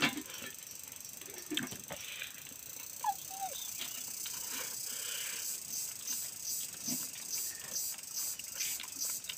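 Close-up eating sounds: a man chewing rice and curry with his mouth open, lip-smacking in a steady rhythm of about two to three chews a second in the second half. A few sharp clicks early on from fingers working rice against a steel plate.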